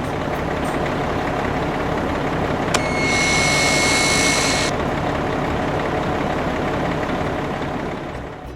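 Engine sound effect of a construction vehicle running steadily with a low rumble. About three seconds in, a high-pitched whine and hiss cuts in sharply, lasts about two seconds, then stops.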